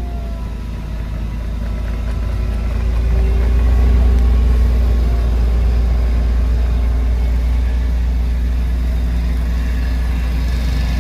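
Diesel engine of an asphalt road roller running steadily while compacting fresh asphalt, its low rumble swelling about three seconds in.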